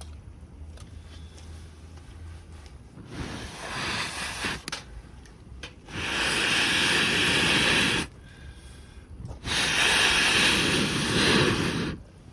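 Butane mini gas torch hissing as it is fired at the kindling: a short weaker burst, then two steady blasts of about two seconds each that start and stop abruptly.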